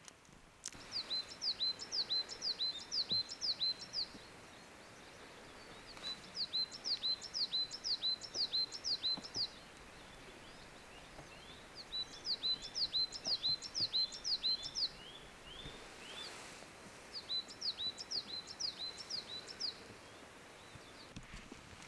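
A bird sings four phrases of rapid, high notes, each note slurring downward, about five notes a second; each phrase lasts about three seconds, with pauses of a few seconds between. Underneath runs a steady, even background hiss.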